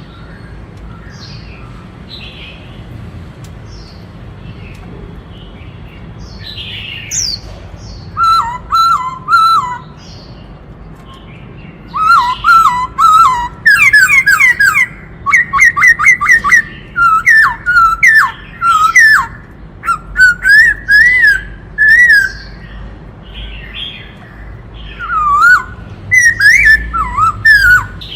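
Black-throated laughingthrush singing. Soft high calls at first, then from about eight seconds in, loud bursts of varied whistled phrases and rapid runs of notes with sharp high ticks, repeated to the end.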